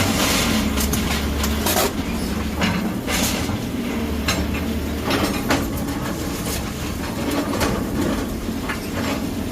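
Heavy demolition machinery running with a steady low rumble, while irregular knocks and clanks of rubble and metal break through it every second or so.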